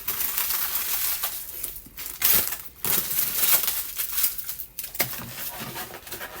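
Crinkling and crackling of takeout food packaging, foil or plastic, being handled and opened, loudest around the middle.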